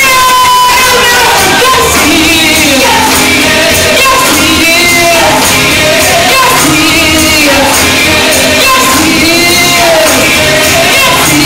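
Gospel music with singing over a steady beat: a lead voice and congregation singing, with percussion keeping time in a large room.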